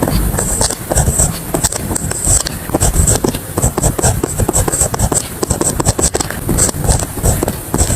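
Pen scratching on paper in quick, continuous strokes, close up, with small ticks and taps as the pen lifts and lands.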